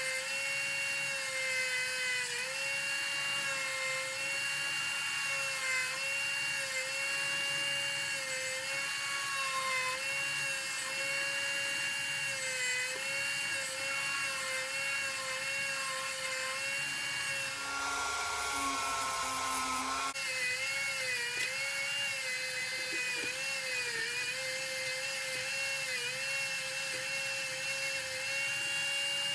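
High-speed handheld rotary tool whining steadily, its pitch dipping briefly every few seconds as it is pressed against the work. About 18 seconds in, a different, steadier whine at another pitch runs for around two seconds before the first whine returns.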